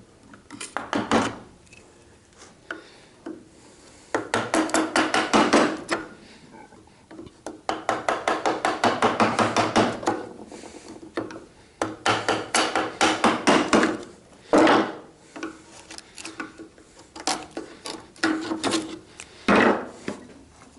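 Steel chisel scraping and paring wood fibres out of the corners of a mortise, in bursts of quick short strokes with pauses between, and a single sharper knock about two thirds of the way through.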